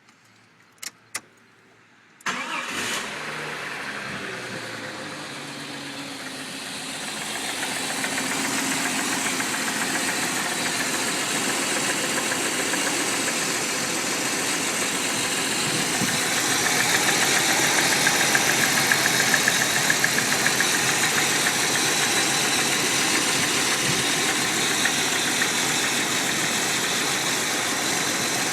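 Two light clicks, then a 1991 Jeep Cherokee Laredo's engine starts about two seconds in and runs steadily at idle. It carries the unfamiliar engine noise that the owner suspects comes from the rocker arms or lifters.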